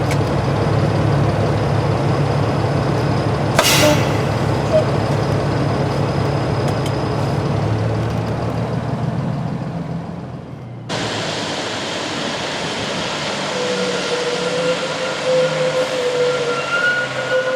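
Peterbilt 389 semi truck's diesel engine running steadily as it drives down the road, heard from inside the cab, with one sharp click about four seconds in. About eleven seconds in the sound cuts abruptly to a different steady machinery noise with a faint thin whine.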